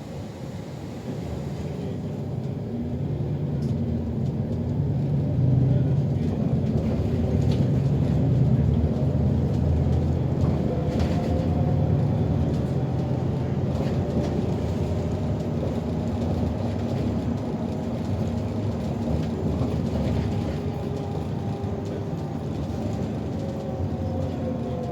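City bus heard from inside the passenger cabin while driving: a low drivetrain rumble and road noise that build up over the first several seconds as it picks up speed, then hold steady, with a faint whine running through the second half.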